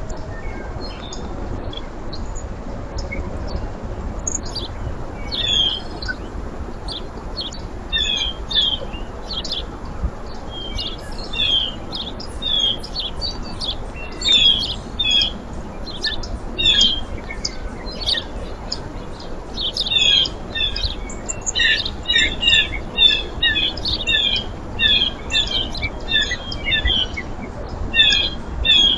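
Small birds chirping at a backyard feeder: many short, high chirps that grow busier about two-thirds of the way through, over a steady low background rumble.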